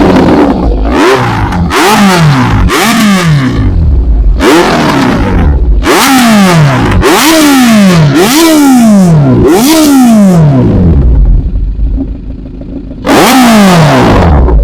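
Kawasaki Z900's inline-four engine through an SC Project aftermarket exhaust, revved hard in quick throttle blips: each rev shoots up and falls back, about nine in a row. The engine drops back to a quieter idle for a couple of seconds before one more rev near the end.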